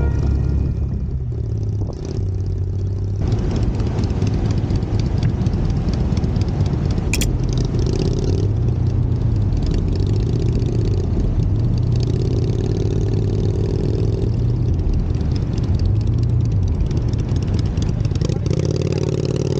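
Suzuki Address 125 scooter's small single-cylinder engine running at low speed, its low hum rising and falling in pitch every second or two, with rattling.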